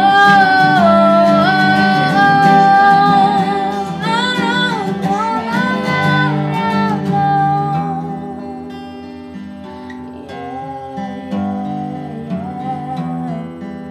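Acoustic guitar strummed under a woman's held, wordless sung notes with vibrato. About halfway through the voice drops away and the guitar plays on more softly, closing out the song.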